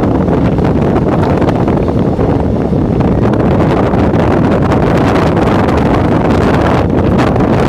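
Indian Railways express train running at speed: a steady, loud rumble of the running train mixed with wind buffeting the microphone.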